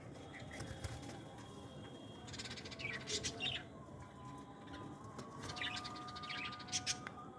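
Small caged pet birds chirping: short scattered high calls, with a couple of quick rapid trills, one about two and a half seconds in and one near the end.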